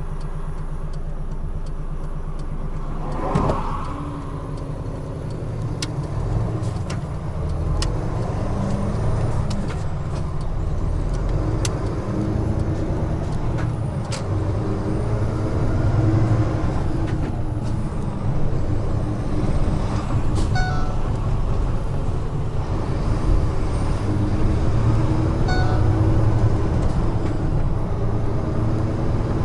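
Large truck's diesel engine running on the highway, its note rising and falling with load and gear changes, with a short hiss a few seconds in. Two short runs of beeps about two-thirds of the way through and near the end, and scattered clicks.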